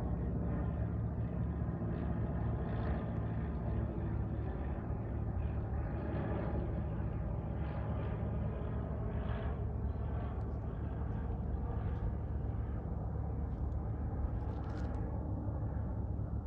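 Cessna 172R Skyhawk's four-cylinder piston engine and propeller droning steadily as the plane passes low overhead on its landing approach. The higher part of the sound fades out near the end as it moves away.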